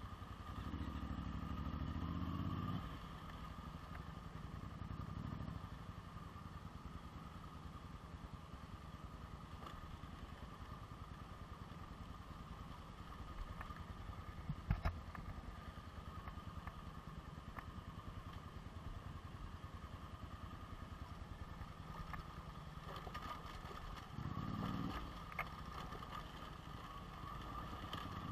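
Cagiva Elefant dual-sport motorcycle engine running at low revs on a rough dirt trail, rising with the throttle about a second in and again near the end. A couple of sharp knocks come about halfway through.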